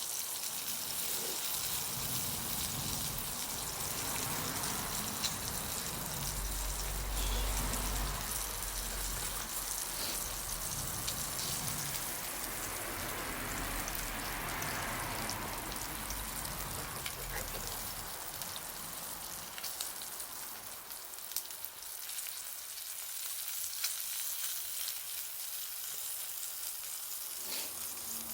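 Bonfire crackling and hissing steadily, with many small sharp pops, and a low rumble from about six to eighteen seconds in.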